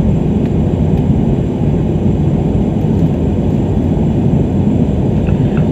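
Steady engine and airflow drone inside an airliner's passenger cabin in flight, a constant low rumble with no change in pitch or level.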